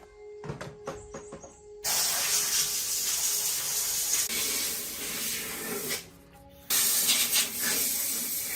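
Two long bursts of compressed air spraying with a hiss: the first lasts about four seconds, and after a short break the second lasts about two and a half. A few light clicks come before the first burst.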